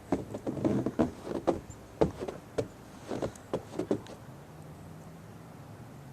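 A quick, irregular series of knocks and thumps, about a dozen in four seconds, then a low steady hum.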